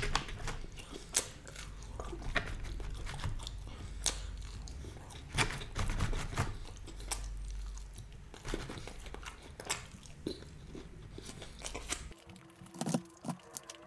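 Close-miked chewing with irregular crisp crunches of fried, breaded fish fingers.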